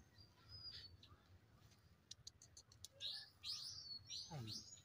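Small birds chirping faintly: a couple of thin whistled notes near the start, a short run of rapid clicks around two seconds in, then a quick series of high, falling chirps in the last two seconds.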